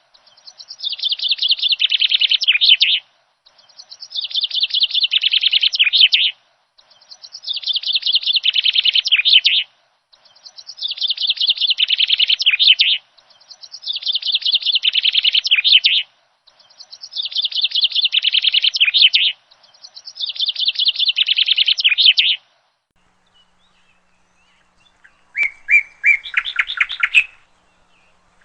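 A bird singing: a phrase of fast, high chirps about three seconds long, repeated seven times at an even pace with short pauses between. Near the end comes a shorter, different burst of chirps.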